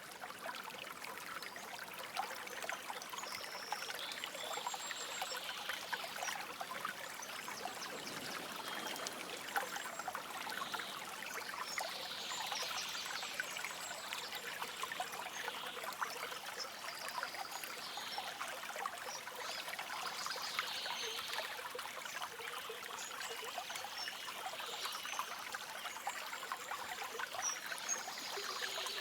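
Stream water trickling steadily, a dense patter of small splashes, with soft high bird calls now and then.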